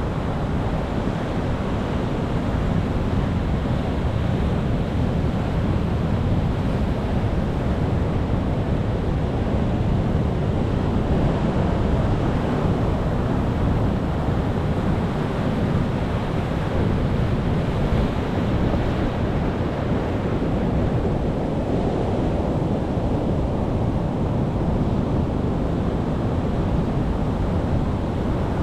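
Ocean waves breaking and washing on the shore, a steady deep rush with slow, gentle swells in loudness.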